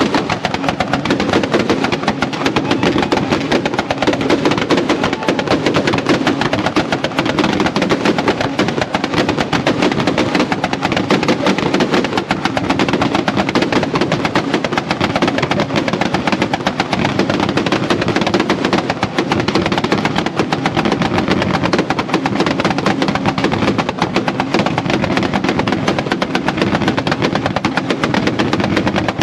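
Car engine held on two-step launch control at high revs, its exhaust firing a rapid, continuous machine-gun-like stream of pops and bangs over the engine drone.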